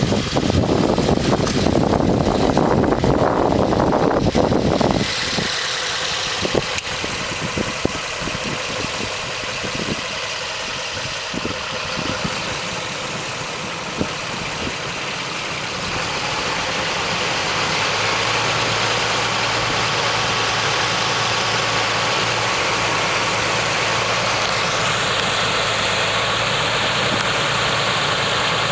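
Milling machine running, loudest and roughest in the first five seconds, then a steady machine hum with a few sharp clicks.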